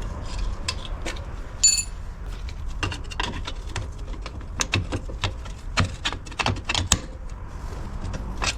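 Metal parts of a seized drum-brake wheel cylinder clicking and knocking irregularly as it is taken apart by hand. There is a brief metallic ring about two seconds in.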